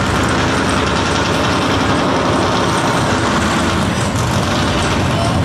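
A hot rod's exposed V8 engine running loud and steady through open side exhaust pipes as the car drives slowly past.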